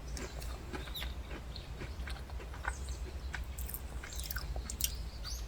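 A crisp baked cookie being bitten and chewed: many small, irregular crunches and crackles.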